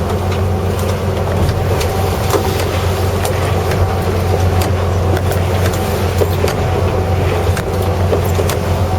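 Fishing boat's engine running steadily with a low hum, with scattered light clicks and knocks over it.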